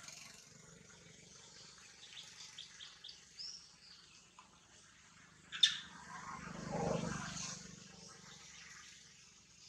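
Birds chirping a few short times in forest ambience, with a single sharp click about five and a half seconds in and a brief muffled sound just after.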